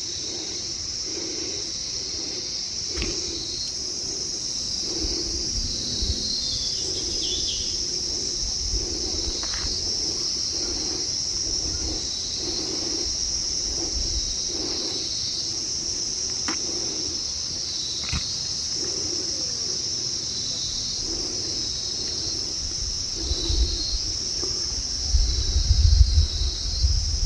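Insect chorus: a steady high-pitched drone. A few faint clicks break in, and a low rumble with louder bumps comes near the end.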